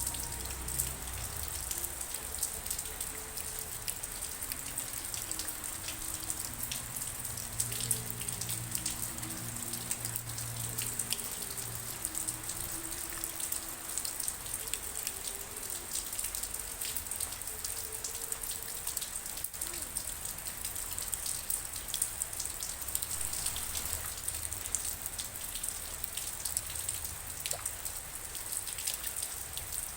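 Steady rain, with many separate drops striking a surface close by.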